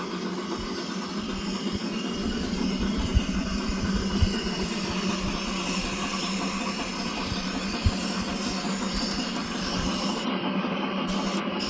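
Model locomotive sound, played through its speaker: a steady hiss with a low running note, and a few brief low thumps about three, four and eight seconds in.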